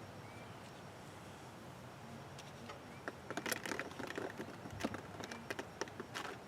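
A metal hand reamer and CPVC pipe being worked by hand: a quick run of irregular sharp clicks and light scrapes from about three seconds in until near the end, after a quiet first half.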